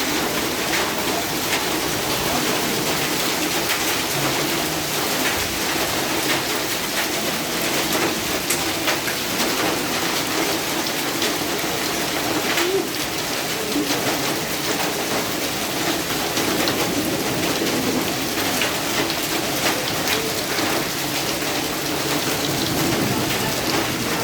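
Steady rain falling, with a dense patter of individual drops ticking on hard surfaces.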